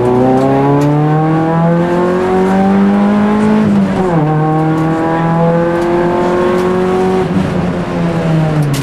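Rally car engine heard from inside the cabin, accelerating hard with its pitch climbing, dropping sharply about four seconds in as it shifts up a gear, then pulling steadily again before falling away near the end as the car slows.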